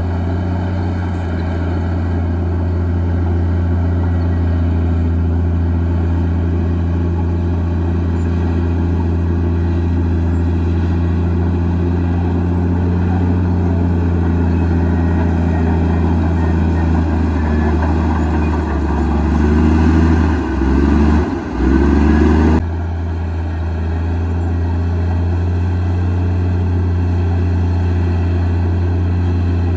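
Komatsu D58E bulldozer's diesel engine running with a steady low drone. About two thirds of the way through its note wavers and dips a few times, then abruptly returns to a steady drone.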